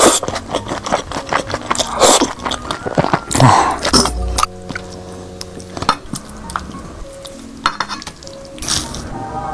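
Close-miked eating sounds, wet smacks and clicks of chewing and handling food, for the first half. About halfway, quiet background music comes in under a few remaining smacks.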